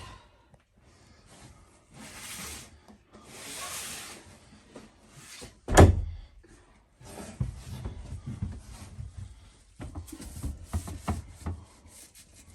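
Hand work on wood and tools: two long scraping strokes, a single sharp knock about six seconds in, then a run of light knocks and clatter.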